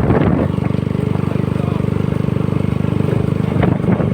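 Honda CBR150R's single-cylinder engine running at a steady speed while riding, its pitch holding level throughout.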